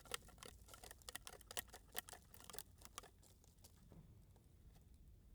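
Faint irregular clicks and taps of an old, rusty license plate being worked loose by hand, thick for the first three seconds and then thinning out.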